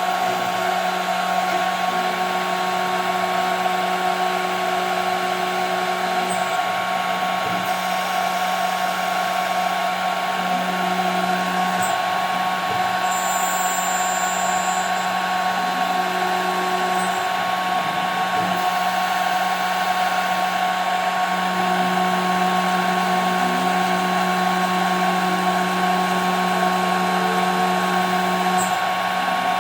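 CNC router spindle running with a steady high whine as the bit cuts 5 mm plexiglass. A lower hum grows louder for a few seconds at a time, around the middle and again for most of the second half.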